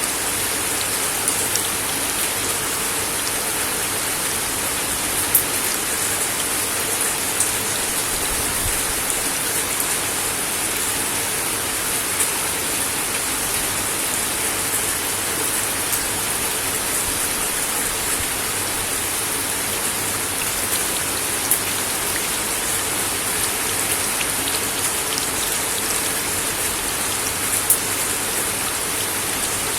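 Steady rain falling on a wooden deck, with an occasional sharper tap of a single drop now and then.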